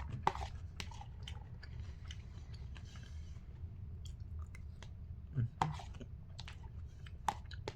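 A person chewing a spoonful of Cinnamon Pebbles cereal soaked in milk, with scattered small clicks and knocks, the sharpest about five and a half seconds in and near the end.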